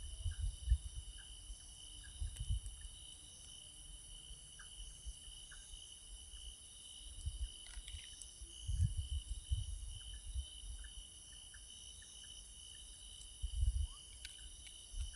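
Night insect chorus: crickets trilling steadily in several high, even tones, with faint short chirps scattered through it. Irregular low thumps and rustles come and go over the chorus.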